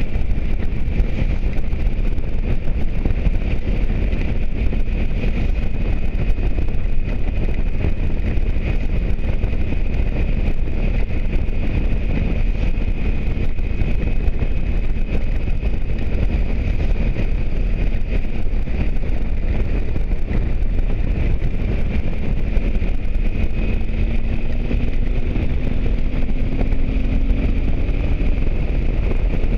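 Wind rushing over the microphone of a moving motorcycle, over the steady hum of its engine, which rises slightly in pitch near the end.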